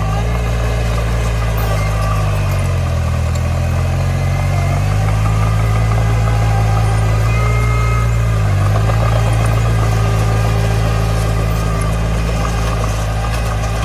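Bulldozer's diesel engine running steadily as it works, its pitch dipping briefly a few seconds in and again past the middle as the load changes.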